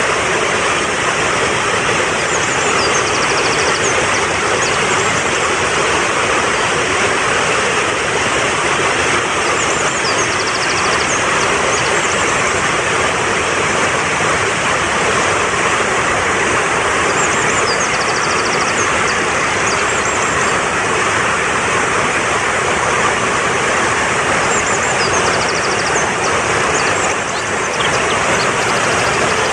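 Mountain stream rushing steadily, a dense hiss of fast-flowing water. Over it a bird's short high chirping phrase recurs about every seven seconds.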